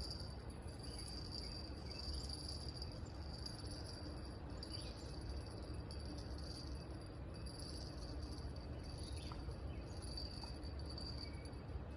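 Crickets chirping steadily: a high trill that swells and fades about once a second, over a low background rumble.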